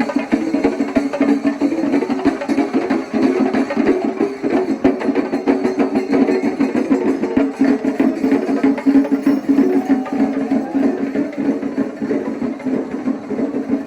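Kerala temple festival percussion ensemble playing loud, rapid, dense drumming, with a steady held tone underneath.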